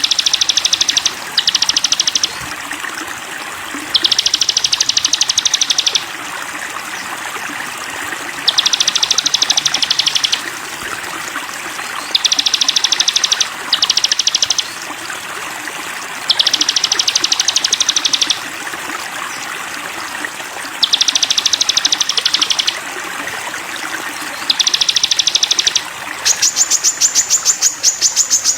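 Sogon bird song from a masteran recording: rapid, high trilling phrases about one to two seconds long, some broken into two parts, repeated about every four seconds over a steady sound of flowing water. Near the end a higher, faster, unbroken trill starts.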